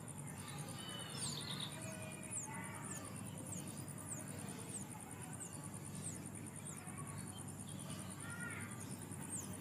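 Forest ambience: an insect's steady, very high trill, with short falling chirps repeating about once a second and scattered bird calls.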